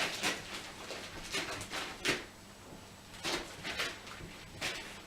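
A dachshund tearing and ripping at gift wrapping paper on a present, a string of short rips and rustles.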